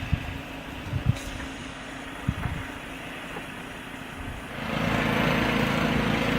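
An engine running steadily, with a few dull thumps in the first couple of seconds; about four and a half seconds in it gets suddenly louder and fuller.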